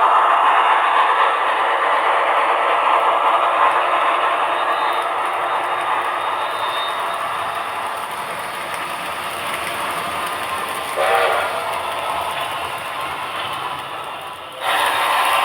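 HO-scale model train headed by two Tenshodo Quantum C62 steam locomotives running on the layout track: a steady rolling and running noise that slowly fades. There is a brief pitched sound about eleven seconds in, and the noise jumps back up suddenly near the end.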